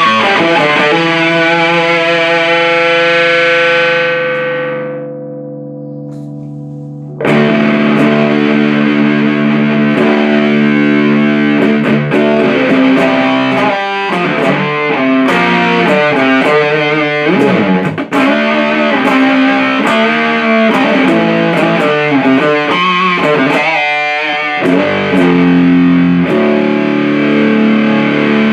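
Electric guitar played through a 77 Fuzz Blender, a Big Muff-style op-amp fuzz pedal, into an Orange Super Crush 100 amp. A held fuzzed chord rings and its treble fades away, then about seven seconds in a heavy distorted riff starts and keeps going.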